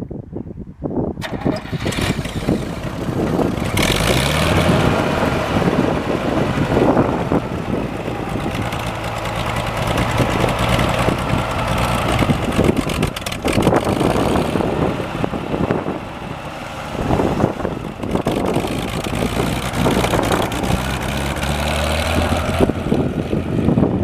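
1959 Farmall 560 tractor engine being cranked from about a second in, catching and picking up speed near four seconds, then running with its speed shifting a few times.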